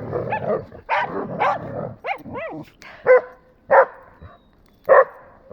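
Dogs barking in rough play: a dense tangle of growly barks for the first two seconds, then single sharp barks roughly a second apart.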